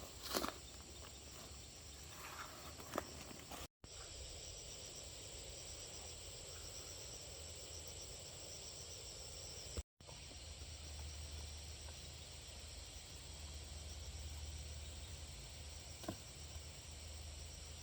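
Insects chirring steadily in high, even bands, with a few faint knocks in the first few seconds and again near the end. The sound drops out briefly twice, about four and ten seconds in.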